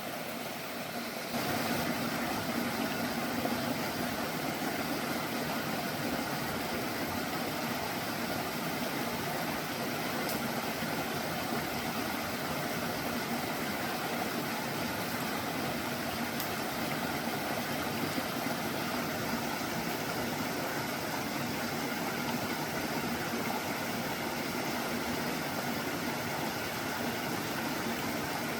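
An engine running steadily, getting louder about a second in and then holding an even level.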